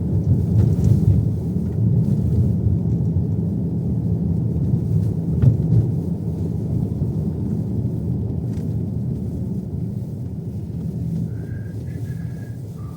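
Steady low rumble of a car heard from inside the cabin, road and engine noise while driving.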